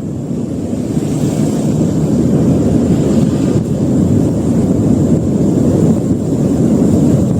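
Steady low rumble of a volcanic eruption, with no separate thunderclaps.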